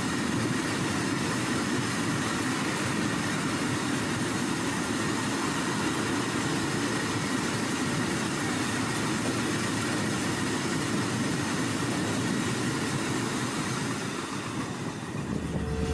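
Freight train of open-top wagons rolling past on the rails: a steady rumble and rattle of wheels and wagons. The train noise drops away near the end.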